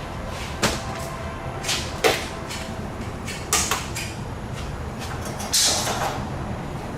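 Half a dozen sharp knocks and clatters at irregular intervals over a steady low hum, with a short hiss about five and a half seconds in: the sort of noise that tools and parts make during hands-on repair work in a shop.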